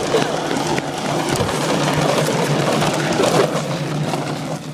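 Mini motorbike's small engine running steadily under a loud rush of noise, most likely wind on the microphone.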